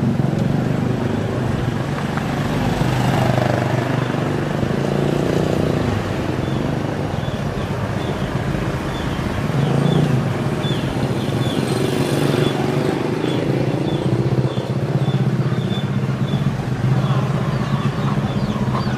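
Small motorcycle engine running steadily at low road speed, its pitch drifting slightly up and down.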